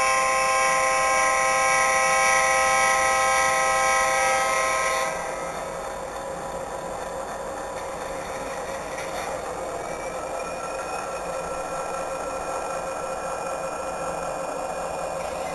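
Model EMD SD40-2 diesel locomotive's onboard sound unit sounding its horn, a steady chord held for about five seconds, then cutting off and leaving a quieter steady hissing running sound.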